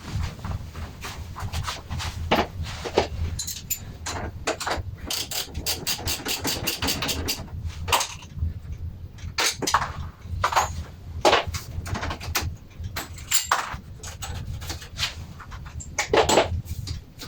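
Metal tools and exhaust parts clinking and knocking irregularly as the muffler's clamp and retaining springs are worked loose, over a steady low hum.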